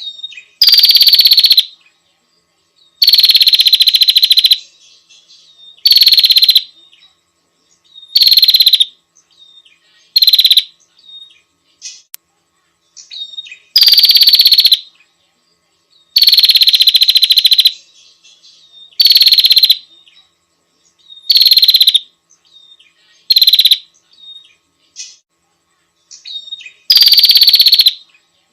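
Female prenjak (prinia) lure call: loud, high-pitched rattling trills, each about a second long and dropping slightly in pitch, repeated every couple of seconds, about eleven times.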